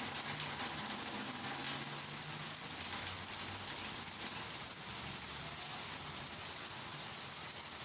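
Heavy rain falling and pattering on surfaces, a steady hiss.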